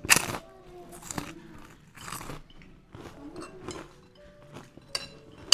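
A person chewing a mouthful of fried rice with crisp prawn crackers, crunching in short bites about once a second, the first bite near the start the loudest.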